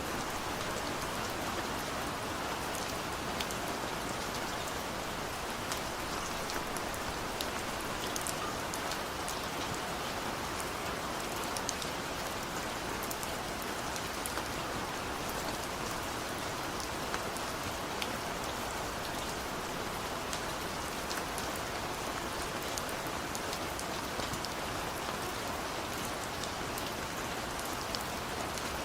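Heavy rain falling steadily, a constant hiss with scattered sharp ticks of single drops striking close by.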